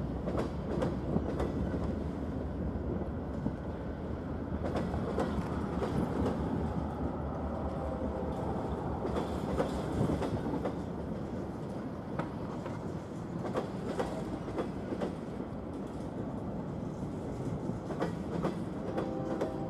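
Freight train's covered hoppers and boxcars rolling past, a steady rumble broken by sharp wheel clicks and clacks.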